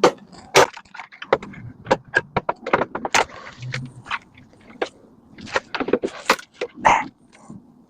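Irregular sharp metallic clinks, clatters and scrapes of hand tools and metal parts while a scrap microwave is being dismantled.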